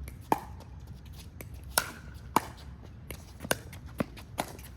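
Pickleball rally: paddles hitting a plastic ball back and forth, about six sharp pops at uneven intervals, with fainter taps between them.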